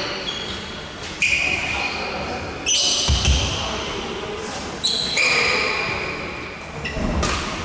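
Badminton rally in a large hall: rackets striking the shuttlecock four times, each hit a sharp crack followed by ringing off the hall. There is a heavy footfall on the court about three seconds in.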